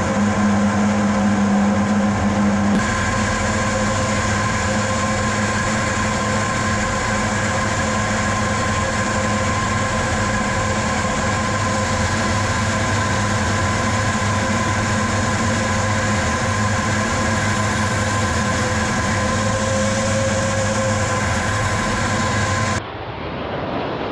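Su-25 attack aircraft's twin turbojet engines running in flight: a loud, steady drone with several steady tones. Near the end it cuts abruptly to a quieter, different rushing sound.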